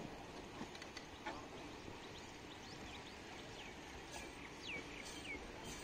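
Slow-rolling passenger coaches with a low rumble and a few faint wheel clicks over the rail joints. In the second half a bird calls in a quick run of short, falling chirps.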